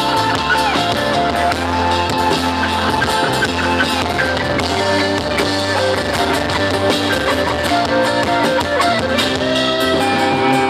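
A live band playing an instrumental passage: a lead guitar line over bass and drum kit.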